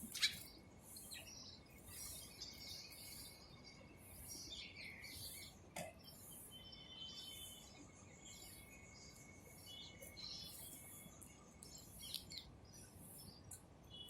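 Several birds chirping and calling in short high-pitched calls throughout, with a sharp click just after the start and another about halfway through.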